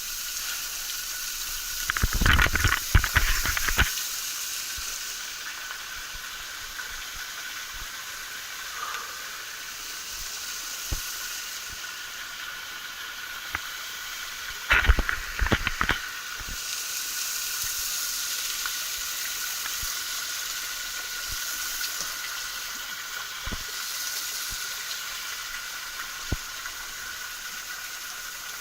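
Steady hiss of a small waterfall's falling water, with two short bursts of loud crackling noise, about two seconds in and about fifteen seconds in.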